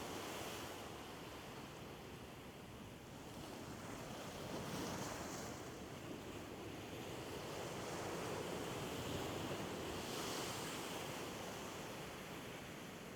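Sea waves washing onto the shore, swelling twice and falling back, with wind.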